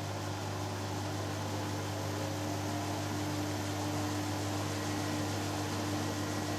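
Hoover Dynamic Next washing machine spinning during its first interim spin between wash and rinse: a steady machine hum with a faint held tone, level and unchanging.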